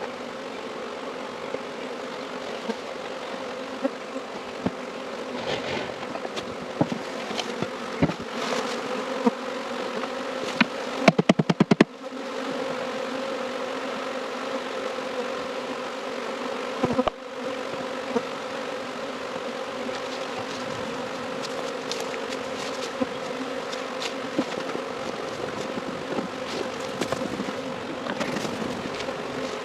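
A swarm of honey bees buzzing steadily in a dense, even hum. Occasional knocks are heard, and a short, loud burst of rapid clicks comes about eleven seconds in.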